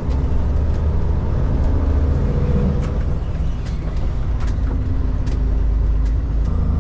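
Steady engine and road noise inside the cab of a Kenworth K200 cabover road train with a Cummins engine, driving along, with scattered light clicks; the engine note shifts slightly near the end.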